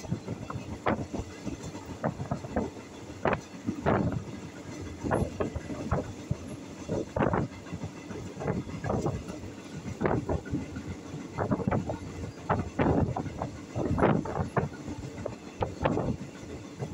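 Passenger train running along the track, heard from inside the carriage: a steady rumble with irregular clacks and knocks from the wheels on the rails and the carriage rattling.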